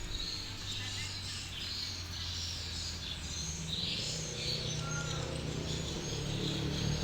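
Many birds twittering with short high chirps that come thickest a couple of seconds in, over a steady low hum that grows fuller about halfway through.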